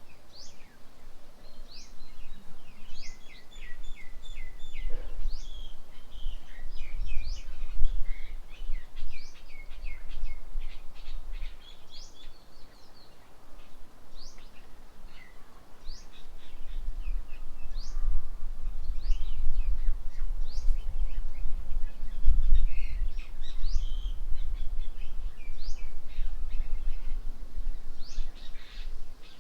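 Birds chirping: many short, quick upward-sweeping calls with a few trills, some birds at a time calling over each other. Under them a low rumble swells and fades twice.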